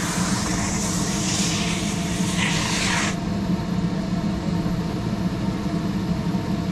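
Steady mechanical hum, with a hissing rush over it that stops abruptly about three seconds in.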